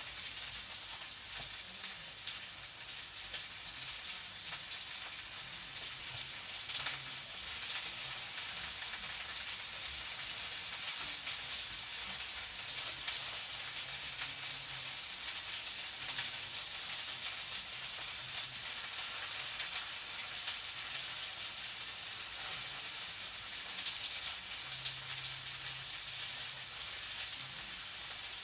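Food frying in a pan: a steady sizzle with fine, rapid crackles. A faint low hum comes and goes underneath.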